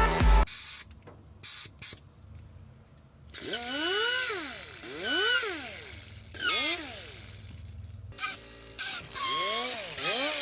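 Background music cuts off at the start. A few seconds in, a pneumatic grinder starts spinning up and winding down again and again, its whine rising and falling about once a second over a hiss of air. The tool is faulty: air escapes through its rubber sleeve, so it won't hold speed.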